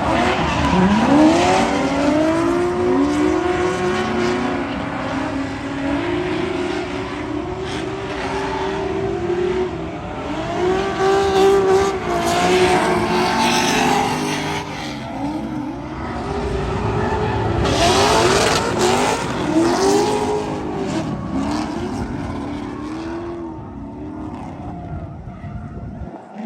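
A car engine revving up and dropping back again and again, with tire squeal, as a car drifts.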